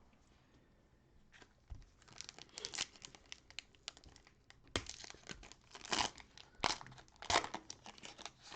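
Plastic cellophane wrapper of a trading-card cello pack being torn open and crinkled by hand. It comes in an irregular run of crackles, loudest in several bursts in the second half.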